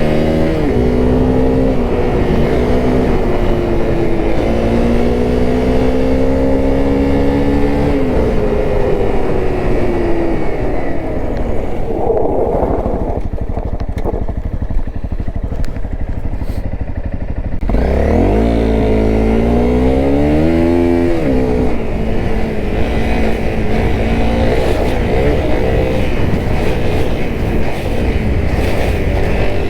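Honda CRF250L's single-cylinder four-stroke engine running under way, its revs climbing and dropping repeatedly as the bike is ridden through the gears. Around the middle the engine note fades low for several seconds, then revs up sharply again and falls back.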